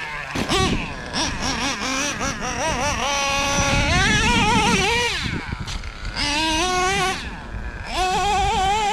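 Traxxas Revo 3.3's OS .21 two-stroke nitro engine revving as the RC monster truck is driven, its high whine constantly rising and falling in pitch. The revs sag about five seconds in, then climb again.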